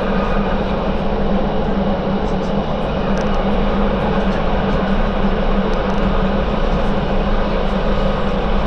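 MTR South Island Line S-train electric metro train running at speed, heard from inside the car: a steady rumble and rush of noise with a steady low hum.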